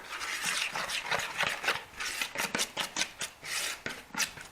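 Marinade of herbs, spices, soy sauce, honey and olive oil being stirred in a bowl: a utensil scraping against the bowl in quick, repeated strokes.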